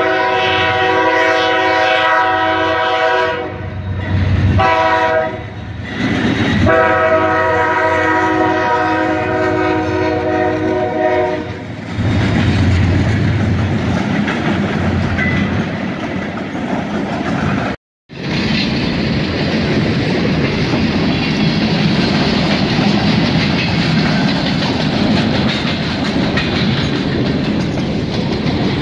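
Freight train locomotive's air horn sounding a long blast, a short one, then another long blast, as a warning at the road crossing. It is followed by the steady rumble and clatter of freight cars rolling past over the rails.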